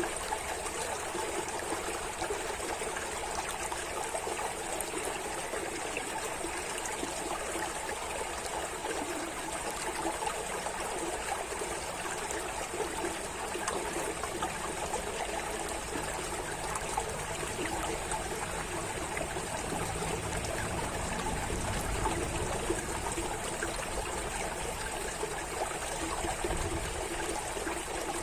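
Water running and trickling steadily, one continuous flow with no breaks.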